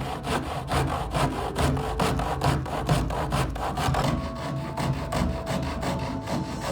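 Hand tool working a red oak bow stave in quick, repeated strokes, wood scraping and rasping with each pass.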